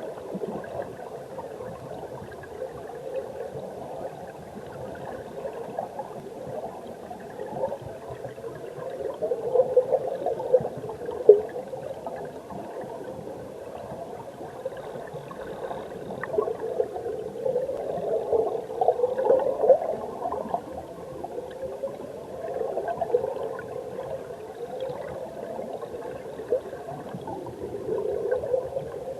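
Mountain stream water heard underwater: a muffled, bubbling rush of current that swells and fades, louder around a third of the way in and again past the middle, with small ticks and pops.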